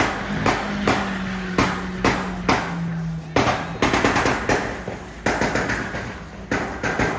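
A rapid, irregular series of sharp bangs and cracks, bunching faster about four seconds in, over a steady low hum that stops about three and a half seconds in.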